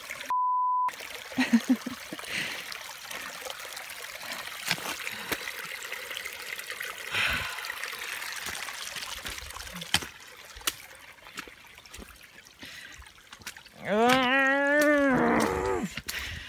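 A censor bleep about half a second in, over a swear word. Then water trickling and running along the flooded trail, with scattered clicks. Near the end a woman gives a drawn-out moan that rises then falls in pitch.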